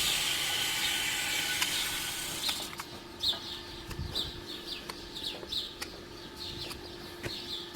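A hissing noise fades out over the first few seconds, then small birds chirp repeatedly, a short high chirp about twice a second.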